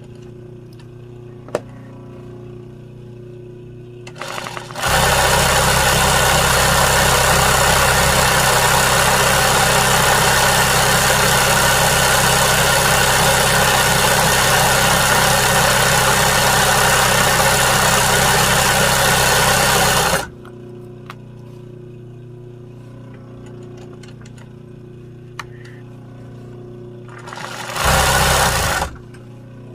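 Sewing machine stitching embroidery: it starts up about four seconds in, runs at a steady fast speed for about fifteen seconds and stops, then runs again in one short burst near the end.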